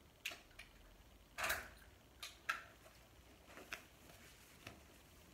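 Faint mouth sounds of someone eating a fried chicken sandwich: scattered short smacks and crunches, the loudest a crunchier burst about a second and a half in.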